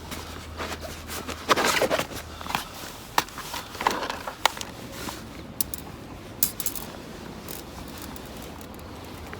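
Camping gear being unpacked and handled: irregular rustling, scraping and light clinks, busiest in the first few seconds and quieter toward the end.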